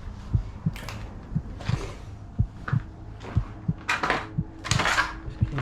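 Footsteps walking over a derelict house's floor, heard as a steady run of low thuds about three times a second, with a few louder rustles and scuffs, the loudest about four and five seconds in.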